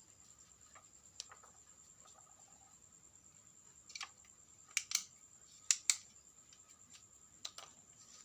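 Scattered sharp clicks and snaps from small parts being handled, the loudest two close pairs about five and six seconds in, over a faint steady high-pitched whine.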